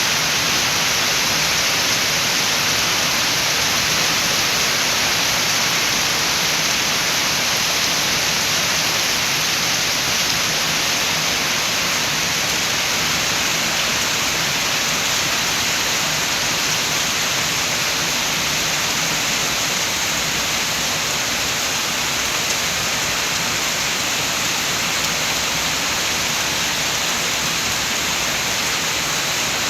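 Steady rain with wind, an even rushing noise that holds constant throughout.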